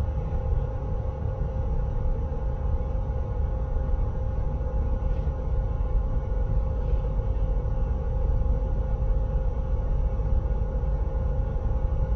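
Train driver's cab sound: a steady low rumble with a constant electrical hum.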